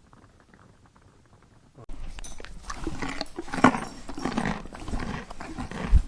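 Horse sounds: a faint low patter, then about two seconds in a louder stretch starts abruptly, with knocks and animal vocal noises from a horse.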